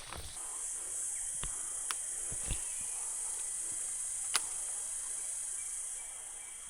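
A steady, high-pitched insect drone swells up just after the start and eases off near the end. A few faint sharp ticks sound over it, the sharpest about four seconds in.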